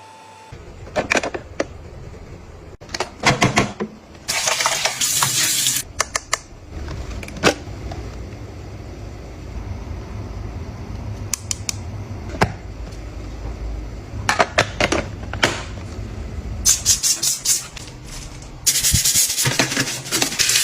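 Household objects being handled close up: sharp clicks and knocks, a low rumble through the middle, and two bursts of hissing, one about four seconds in and one near the end.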